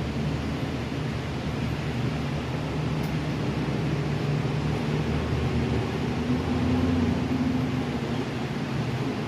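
A steady rushing noise with a low, engine-like hum under it; the hum's pitch shifts slightly a little past the middle.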